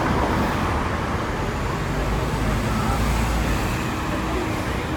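Steady rumble of a Hong Kong double-deck tram running, mixed with road traffic noise.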